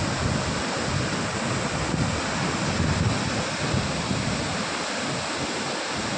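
Waterfall: a steady, loud rush of falling water, with wind buffeting the microphone.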